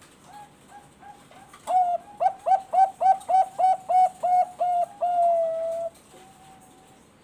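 Zebra dove (perkutut bangkok) singing: a few soft notes, then a fast run of about a dozen loud, clipped coos at roughly three a second, ending in one long held note.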